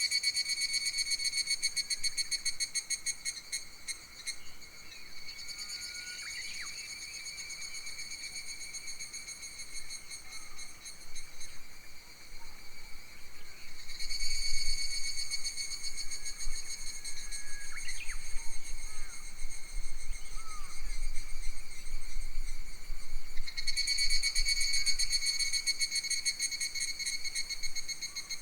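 Summer insect song: a high, steady, finely pulsing buzz that stops for a moment about halfway through and then starts again. A few faint short bird chirps and a low wind rumble on the microphone lie beneath it.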